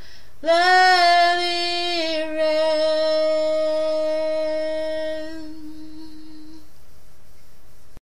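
A woman singing one long sustained final note of a worship song. It begins about half a second in, holds a steady pitch and dies away about six seconds in, leaving only a faint hiss.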